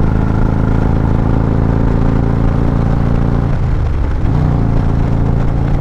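Harley-Davidson CVO Street Glide V-twin with Krome Werks Aggressor headers and slip-on mufflers, opened up hard on the throttle. There is a brief dip in the engine note about three and a half seconds in, after which it pulls on.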